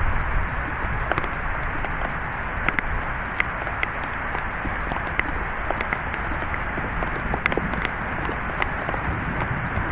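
Steady heavy rain from a thunderstorm, with scattered sharp taps of individual drops.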